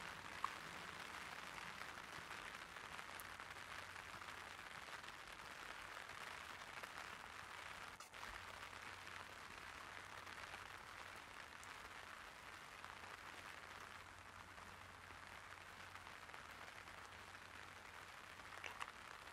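Light rain pattering steadily on an umbrella, faint and even, with a single sharp tick about half a second in.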